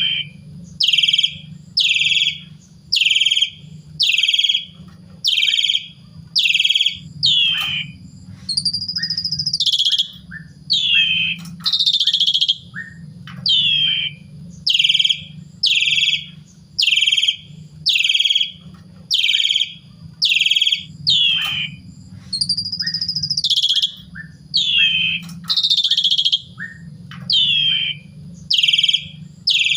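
Asian pied starling (jalak suren) singing: a fast run of loud, short, repeated chirping notes, about two a second, broken twice by a longer whistle that rises and then falls. A low hum runs underneath.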